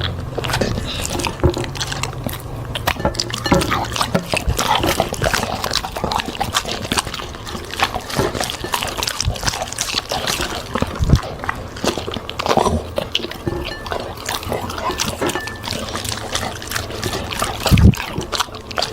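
A dog eating, with wet chewing, smacking and slurping and a steady run of small crunches and clicks.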